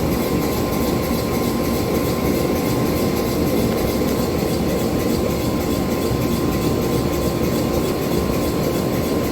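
Forge running with a steady, even rushing noise, with no hammer blows, as a 5160 steel knife blade heats to cherry red for normalizing.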